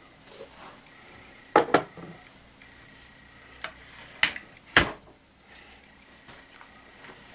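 Handling clicks and knocks from a break-barrel air rifle being worked after oiling its chamber. There is a quick pair of knocks about a second and a half in, a faint click, then two sharper clacks a little later, the last one the heaviest.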